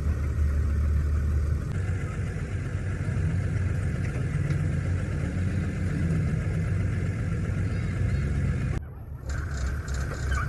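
A motor vehicle engine running steadily with a low rumble. The sound changes abruptly about two seconds in and drops out briefly near the end.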